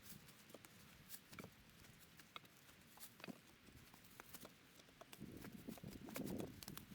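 Near-silent forest with scattered faint clicks and ticks, then soft rustling and crunching from about five seconds in.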